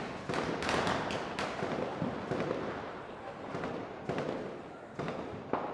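Firecrackers going off: a quick cluster of sharp bangs in the first second and a half, then single bangs every second or so, each trailing off in an echo, over a steady background of more distant bursts.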